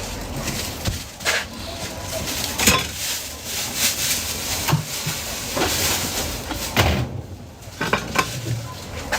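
Food sizzling in a hot pan at a street-food stall, with metal utensils stirring and clinking against the pan now and then.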